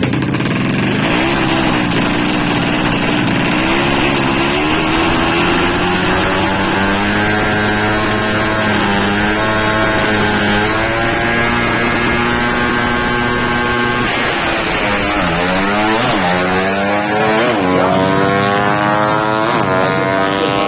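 Drag-racing underbone motorcycle engine revving. The pitch climbs and falls slowly at first, then the throttle is blipped in a run of sharp dips and rises in the second half.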